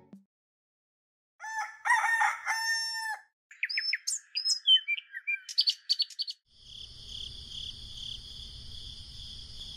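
A rooster crowing once, followed by small birds chirping for a few seconds. After that, a steady high pulsing trill over a low hum continues to the end.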